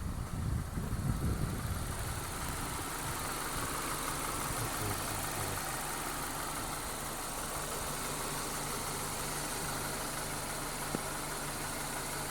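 Suzuki J24B 2.4-litre four-cylinder petrol engine running: uneven and a little louder for the first couple of seconds, then settling into a steady idle. A single light click near the end.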